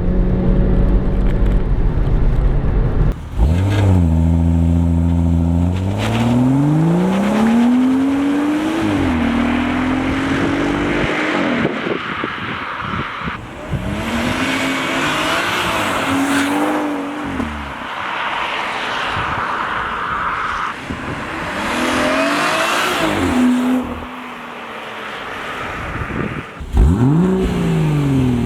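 Stock BMW M140i's turbocharged 3.0-litre straight-six accelerating hard several times, its pitch rising through each gear and dropping back at each change, on the standard exhaust. A hiss of tyres on the wet road runs under it.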